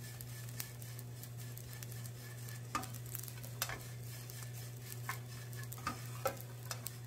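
Dried anchovies frying in oil in a frying pan, sizzling and rustling crisply ('sagak-sagak') as a wooden spoon stirs them, with the spoon scraping or knocking against the pan several times. The anchovies are at the stage of frying hard and crisp. A steady low hum runs underneath.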